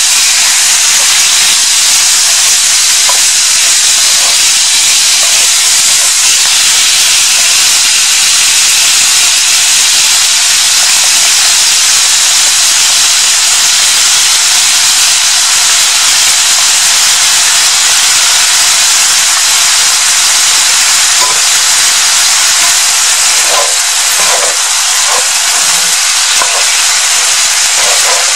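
Chicken pieces sizzling in hot oil in a cast-iron skillet, a steady, loud frying hiss, with the spatula knocking faintly against the pan near the end.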